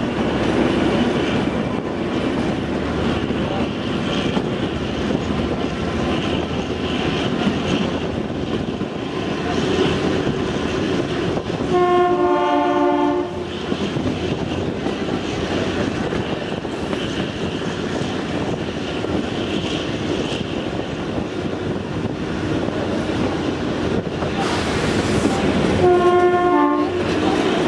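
Kalka–Shimla narrow-gauge toy train running along the track, with a steady rumble and the clickety-clack of its wheels. The locomotive's two-note horn sounds twice, for about a second and a half each time: once about midway and again near the end.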